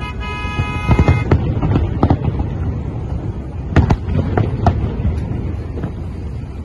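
Fireworks display going off: repeated sharp bangs, clustered about a second in and again near four seconds, over a continuous low rumble. A held high tone sounds through the first second.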